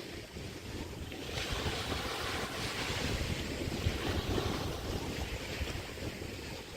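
Small bay waves washing onto the beach, one wash swelling in about a second and a half in, with wind buffeting the microphone.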